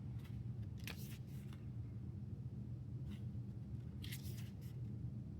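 Paper and card being handled: a few short rustles and slides of album pages and photocards, the longest near the end, over a steady low hum.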